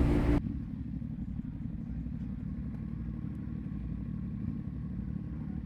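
Motorcycle riding noise, wind rush over the engine, cuts off abruptly about half a second in, leaving a quieter, steady low engine rumble.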